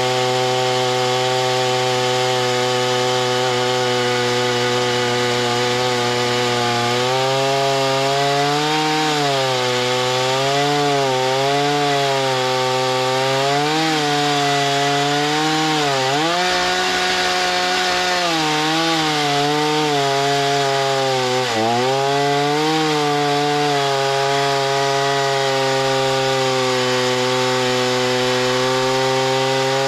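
Chainsaw running at high speed, its pitch dipping and wavering repeatedly through the middle as it bogs under load while cutting, then holding steady again.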